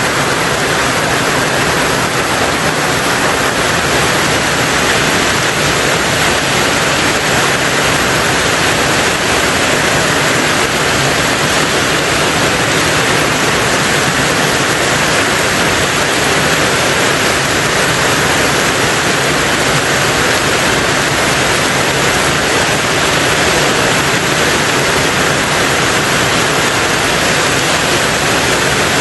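Heavy rain falling steadily on a tin roof, a dense even hiss of drops with no let-up.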